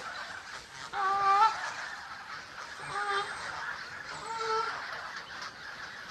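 Goose honking: three short honks spaced over a few seconds, the first and loudest about a second in.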